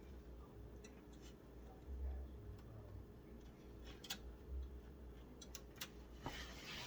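Faint scattered clicks and light plastic rustling from cables being pushed and routed inside a PC case, with a few sharper clicks in the second half.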